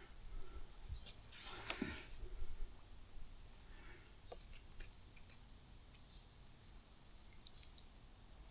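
Steady high-pitched trilling of insects, faint. Brief rustling and handling noises come through a couple of seconds in.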